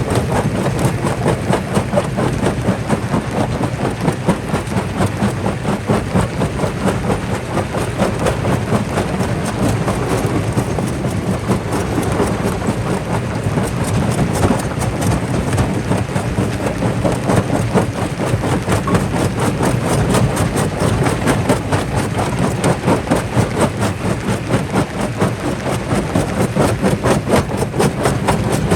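Quarry jaw crusher running: a steady low machine drone under constant, uneven knocking and clatter of rock being crushed.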